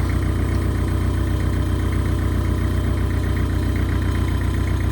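Heavy machine's diesel engine idling steadily, an even low hum that does not change.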